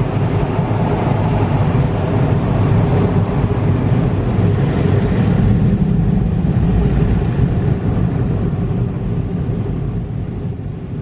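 Automatic car wash equipment running, heard from inside the car's closed cabin: a loud, steady, deep rushing noise that eases off near the end.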